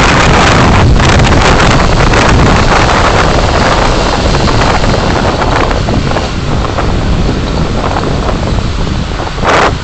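Road and wind noise of a car being driven, recorded by a dashcam: a loud, steady rush that eases somewhat over the second half, with a brief louder burst just before the end.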